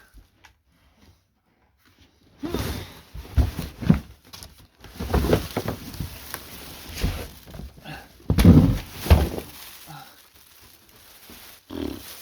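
Heavy thumps, knocks and cardboard rustling as the 50cc minibike is handled in its shipping box, starting about two seconds in and loudest around eight to nine seconds in.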